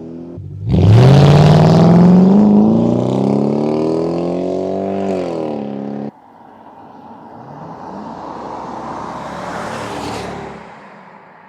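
Jaguar XK8's V8 exhaust under hard acceleration: the engine note bursts in under a second in, climbs quickly, holds, then eases and cuts off suddenly about six seconds in. After that a quieter car sound swells and fades, as a car passing by.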